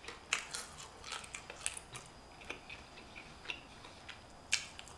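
Close-up chewing of a crispy fried lemon pepper chicken wing: faint, irregular wet crackles and clicks from the mouth, the loudest about four and a half seconds in.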